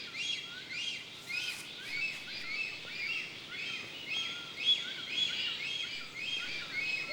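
Small birds chirping: many short, quick calls repeated several times a second and overlapping, like a woodland dawn chorus.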